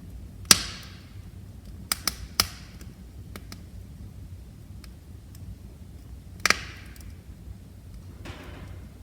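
Wood fire crackling in a fireplace over a low steady rumble. A loud sharp pop comes about half a second in, three quick pops around two seconds, another loud pop at about six and a half seconds, and a short soft hiss near the end.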